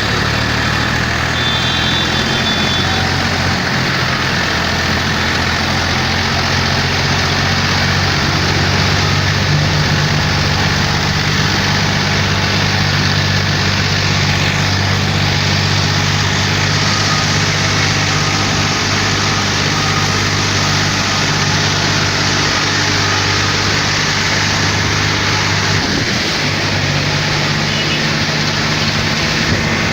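A motor vehicle's engine idling steadily, a constant low hum under a steady hiss.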